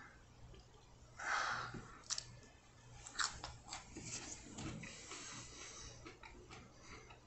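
Biting into and chewing a raw Hallows Eve hot pepper: faint, crisp, wet crunches of the pepper flesh.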